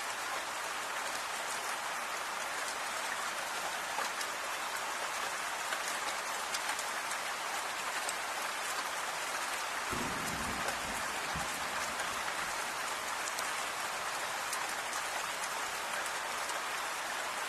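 Steady rain falling, a dense even hiss with many individual drops ticking through it. A brief low rumble comes about ten seconds in and fades within a second or two.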